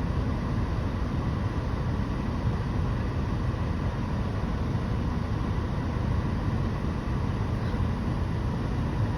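Steady low rumble of vehicle noise with a faint, even hum above it and no distinct events.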